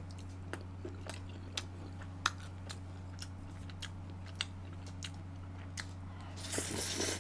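Close-up chewing of spicy braised pork ribs with soft cartilage bones: soft wet clicks and smacks about every half second. A short noisy burst comes near the end, and a steady low hum runs underneath.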